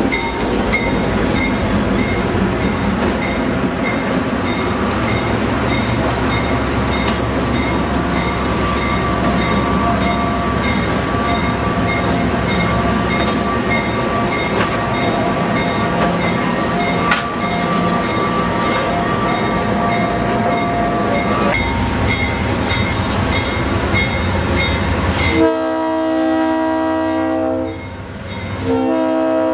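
A diesel-hauled passenger train rolls past, its wheels clicking over rail joints, with a bell ringing steadily. About 25 seconds in, an approaching diesel locomotive blows its multi-chime air horn, breaks off briefly, then sounds again near the end.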